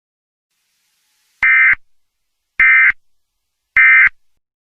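Three short bursts of Emergency Alert System digital data tones, each a fraction of a second long and about a second and a quarter apart. This is the end-of-message code that closes an alert broadcast.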